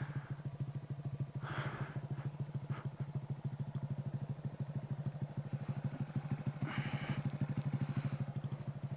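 Honda Grom's 125cc single-cylinder four-stroke engine running at low, steady revs, with a fast, even putter from the exhaust. Two brief rushes of noise come about a second and a half in and again near seven seconds.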